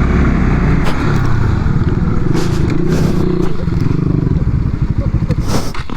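Motorcycle engine revving hard, its pitch wavering up and down, easing off toward the end, with a brief rush of noise just before it ends.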